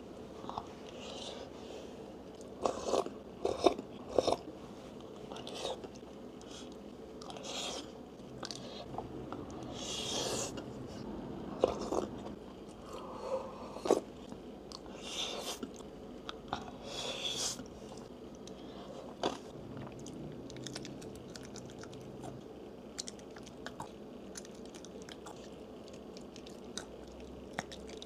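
Close-miked eating: chewing soy-marinated salmon and rice, with wet mouth sounds and scattered sharp crunches and clicks. There are a couple of hissy stretches as she sips from a cup around the middle, and a crunchy bite into a green vegetable near the end.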